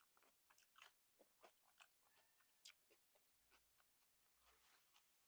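Faint chewing and mouth clicks of a person eating egg with rice: an irregular run of small, quick clicks.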